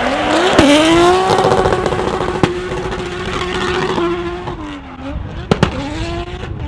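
Car engine at high revs: it climbs, holds steady for about three seconds, drops back, then climbs again near the end, with a few sharp pops over it.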